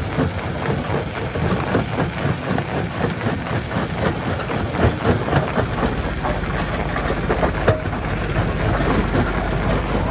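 Heavy engine running steadily, with many short knocks and clatters throughout. A steady low hum joins about six seconds in.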